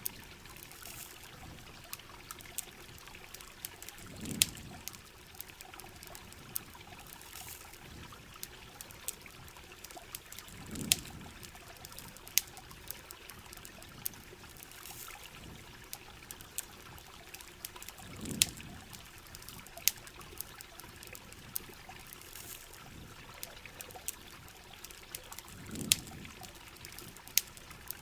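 Rain ambience with trickling, dribbling water, scattered through with sharp crackles and pops of a campfire. A low rushing swell rises and falls four times, about every seven and a half seconds.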